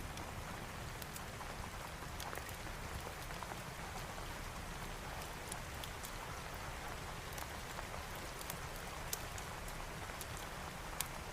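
Steady rainfall with a low rumble underneath, dotted with scattered sharp pops and crackles of a wood fire burning in a fireplace.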